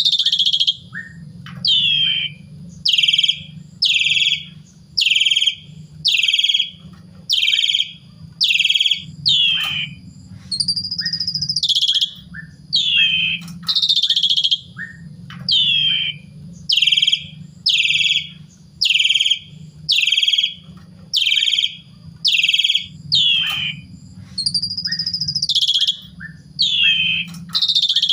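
Asian pied starling (jalak suren) singing: a loud falling call repeated about once a second, broken twice by a longer, higher held note, over a low steady hum.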